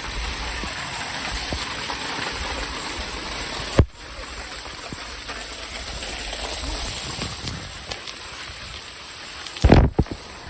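Steady rushing noise of heavy rain and storm runoff during a flash flood. There is one sharp knock about four seconds in and a cluster of loud knocks near the end.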